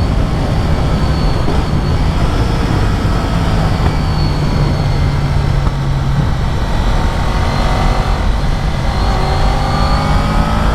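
Honda VFR750's V4 engine running at a steady road speed under heavy wind noise, its pitch rising near the end as it picks up revs.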